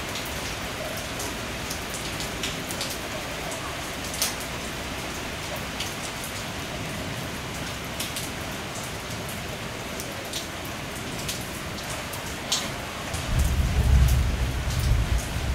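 Heavy thunderstorm rain falling steadily, with occasional sharper drips. A loud low rumble sets in near the end.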